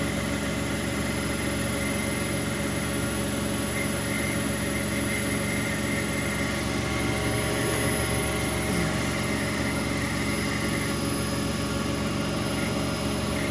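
Bauknecht WA Aquaton 1400 front-loading washing machine spinning at steady speed: an even motor hum and whine that holds one pitch.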